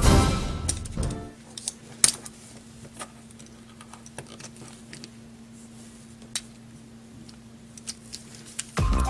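Background music fades out about a second in, leaving scattered small clicks and snaps of a plastic Transformers Optimus Prime figure's parts being folded and locked during its conversion from truck to robot, over a faint steady hum; the music comes back near the end.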